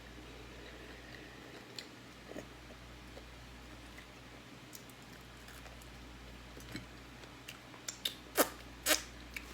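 Fried chicken being chewed close to the microphone: quiet at first, then a run of sharp crunches and mouth smacks in the last two seconds, the loudest two about half a second apart.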